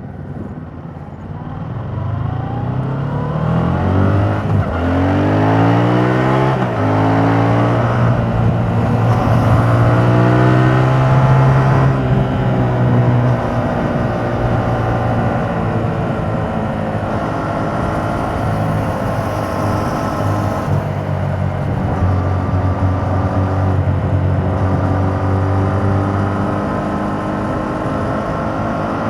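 2021 Yamaha MT-07's 689 cc parallel-twin engine through its stock exhaust, heard onboard. It accelerates with two upshifts in the first seven seconds, the pitch climbing and dropping each time, then settles into a steady cruise with the pitch drifting gently.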